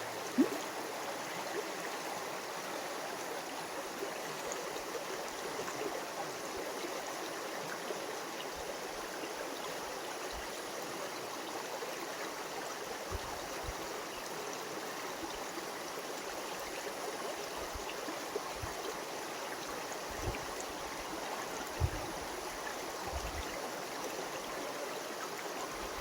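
Stream water running steadily over rocks, an even unbroken rush. A sharp click near the start and a few brief low thumps in the second half.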